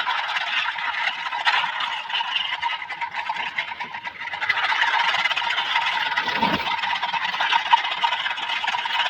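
Battery-powered toy helicopter running, its small motor whirring steadily with a faint steady tone. The whir dips briefly about four seconds in and then comes back louder.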